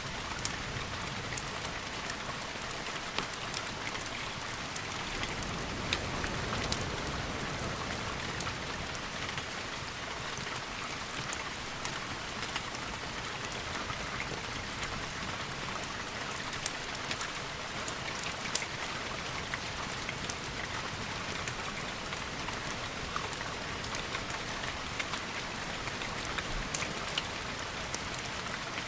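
Steady rain falling, with many small sharp ticks scattered through it.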